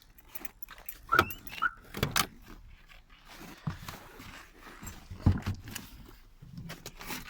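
Keys jangling among a few separate sharp clicks and knocks, with a short squeak about a second in; no engine is running.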